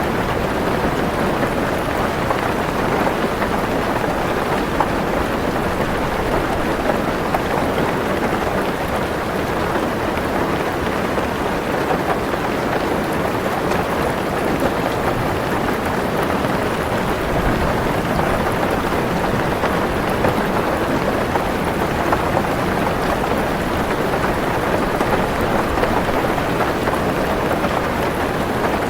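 Heavy rain pattering steadily on a car roof, with a low rumble of thunder underneath.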